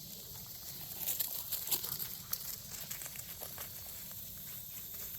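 Footsteps crunching and rustling on a dry, leafy creek-side path, with scattered irregular crackles and a steady faint hiss behind.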